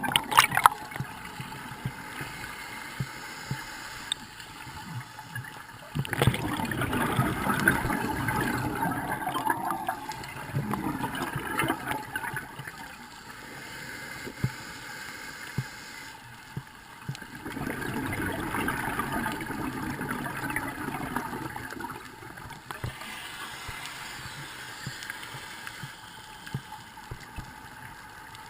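Water gurgling and sloshing in surges a few seconds long, with quieter spells between.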